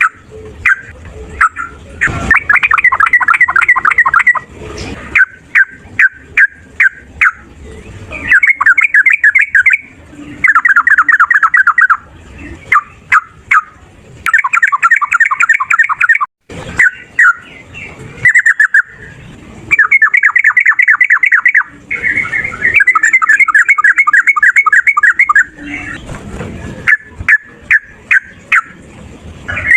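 Sooty-headed bulbul (trucukan) singing its fast rolling 'ropel' song: short sharp chirps alternating with bursts of rapid trills about one to three seconds long, repeated many times.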